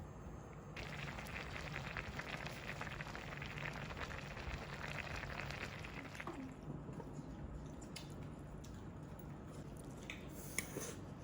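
Food sizzling in a hot pan, starting suddenly about a second in and dying down after about six seconds, then a few light clicks near the end.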